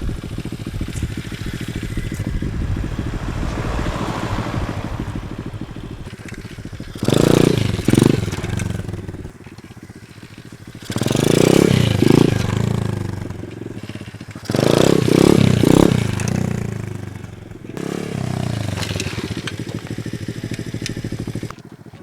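A 125cc single-cylinder pit bike engine runs steadily, then is revved hard three times in quick surges that fall away after each one, as the rider tries wheelies. It settles to a moderate run near the end.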